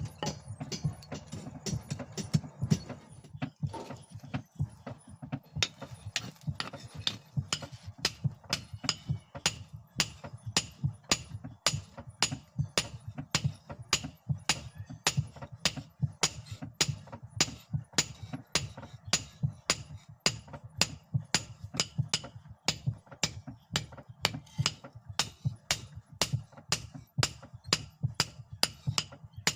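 A hammer striking leaf-spring steel on an anvil in a steady rhythm of about three blows a second, with a low steady hum underneath.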